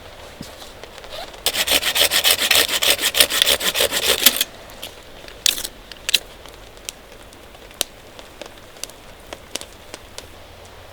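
A burst of quick rasping strokes, like a small hand saw cutting through wood, for about three seconds, then scattered light ticks.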